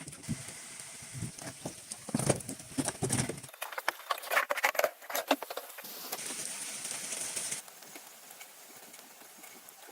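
Irregular knocks, taps and handling clatter from hand work with building materials, a few of them sharper and louder around the middle; the background changes abruptly twice.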